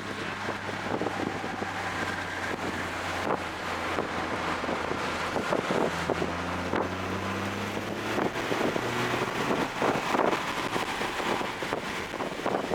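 Toyota GR Corolla's turbocharged three-cylinder engine running at speed on track, its note rising and falling as it pulls and lifts, under heavy wind and road noise.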